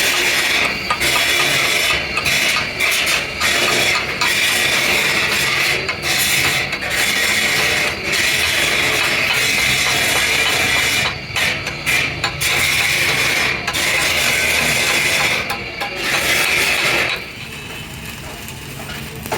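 Harsh abrasive scraping on metal, running in long stretches with short breaks and stopping about seventeen seconds in.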